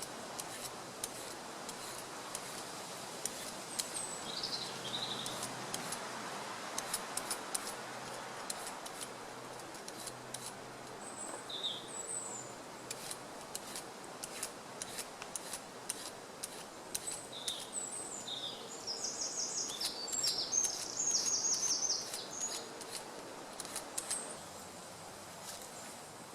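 Vegetable peeler scraping down a carrot in quick repeated strokes. Small birds chirp now and then, with a fast trill near the end.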